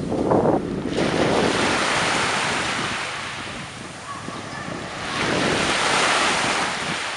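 Surf washing in: two swells of a broad hiss, about a second in and again about five seconds in, with wind buffeting the microphone at the start.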